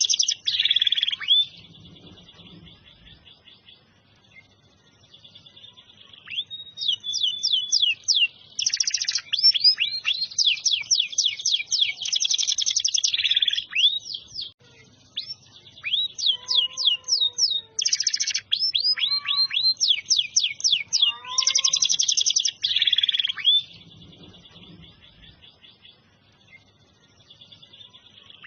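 Domestic canary singing: long phrases of rapid trills and rolling notes, quieter and softer twittering for a few seconds near the start and again near the end.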